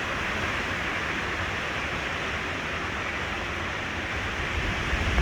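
Steady rushing hiss of hurricane rain and wind, with low rumbling gusts coming in near the end.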